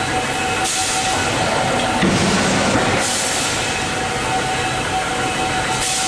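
Industrial machinery running in a workshop, likely the electric screw press: a steady mechanical hum with several held tones, and a hiss that swells roughly every two and a half seconds.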